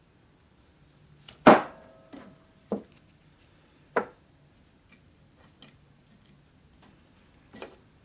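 Metal parts of a small benchtop lathe being handled and set down: a loud clank about one and a half seconds in that rings briefly, then a few lighter knocks.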